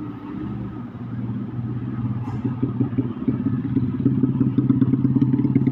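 Truck's diesel engine pulling through a bend, with a clattering, rapidly pulsing note that grows louder as it approaches.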